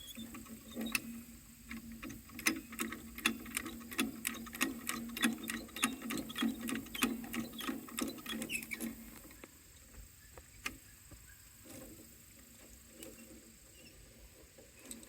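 A ratchet being worked by hand: a regular run of sharp clicks, about three a second, for some nine seconds and then stopping, over a steady low hum.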